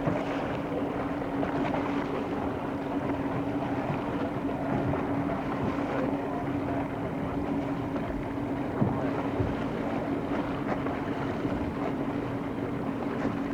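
Motorboat engine running steadily with a constant hum, wind buffeting the microphone.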